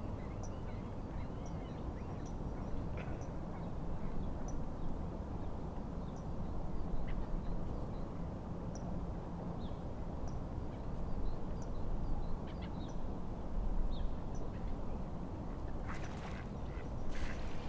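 Steady low rush of wind and lapping lake waves, with small birds chirping now and then, and two loud, harsh bird calls near the end.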